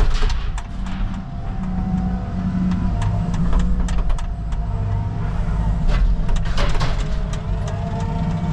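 Caterpillar 306 mini excavator's diesel engine running steadily under load with a faint whine, while the bucket crushes mobile-home debris. Clusters of sharp cracking and crunching come about a second in, around three to four seconds, and again around six to seven seconds.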